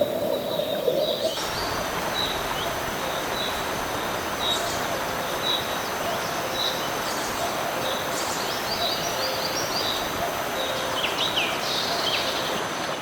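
Birds chirping, short calls about once a second with a few down-slurred notes near the end, over a steady rush of flowing river water that sets in about a second in.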